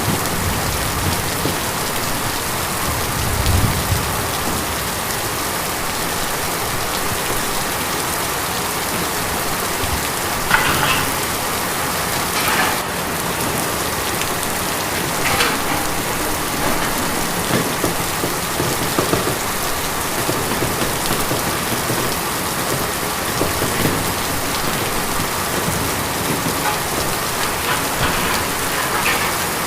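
Steady rain pattering on a tin roof, with a few louder drops landing now and then.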